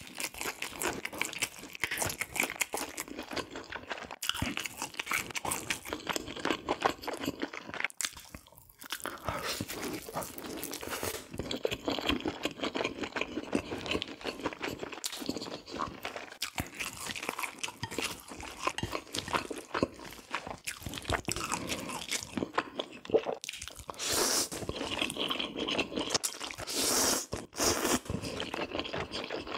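Close-miked eating: crunchy bites and steady chewing of food, with a brief pause about a third of the way in and two louder, longer noisy stretches a few seconds before the end.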